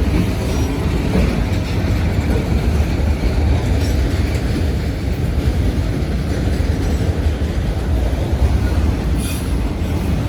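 Freight train cars rolling past close by, giving a steady, loud low rumble of steel wheels on rail, with a brief higher-pitched sound about nine seconds in.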